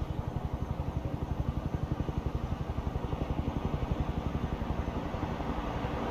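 Low engine rumble from a nearby vehicle, pulsing fast and evenly over a background hum of town noise, growing slightly louder toward the end.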